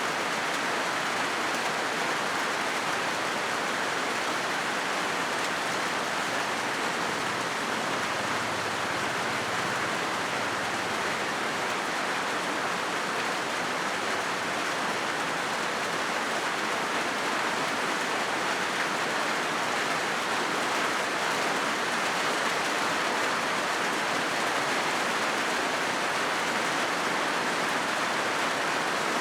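Steady rain falling on a corrugated galvanized-iron (zinc) roof, an even, unbroken sound with no let-up.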